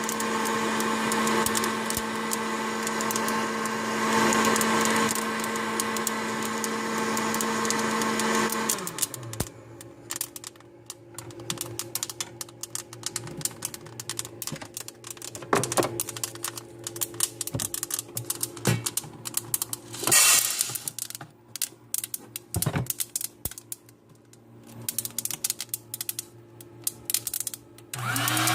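An air popper coffee roaster's fan motor runs with a steady hum and then winds down and stops about nine seconds in. Scattered light clicks and a few sharper knocks follow over a faint low hum. Near the end the popper motor starts up again, its pitch rising.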